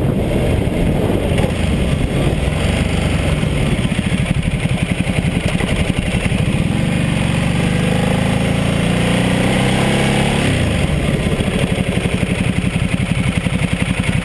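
Ducati Multistrada 1200S's L-twin engine running under way, heard from a bike-mounted camera with wind rush. Its pitch rises steadily as the bike pulls, then drops sharply about ten seconds in as the throttle closes, and it runs on with a pulsing beat.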